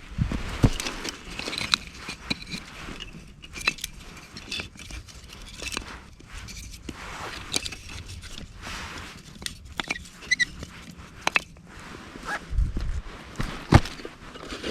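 Irregular knocks, clicks and scraping of camping gear being handled, with a few heavier thumps near the start and near the end.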